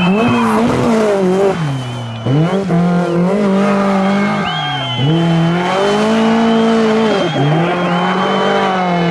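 Rally car engine revving hard, its pitch climbing and then dropping sharply about four times as the driver lifts off and gets back on the throttle. A thin, high, steady squeal comes and goes over it.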